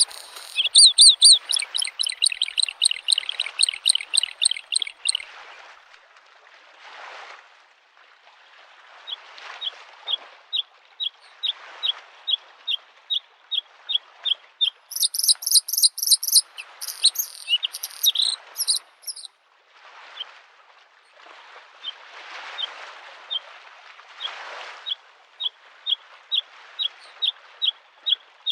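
Bluethroat singing: fast, varied trilled phrases near the start and again around the middle, between runs of single sharp notes repeated about twice a second. Underneath, lake waves wash against the shore in slow, swelling surges.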